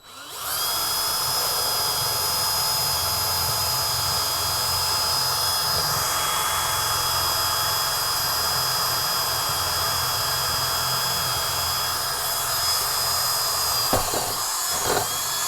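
Electric drill with a 10 mm bit running steadily, boring a hole, with a steady high whine over the motor noise. A few knocks come near the end as the bit hits something underneath, then it stops suddenly.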